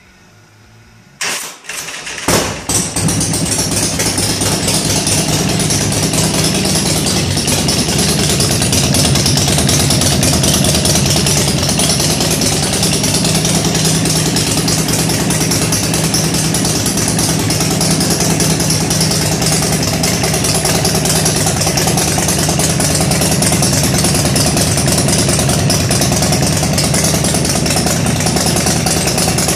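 Ultima 113 cubic-inch V-twin motorcycle engine cranked on the starter for its first start, catching about two seconds in after a few short turns, then running steadily.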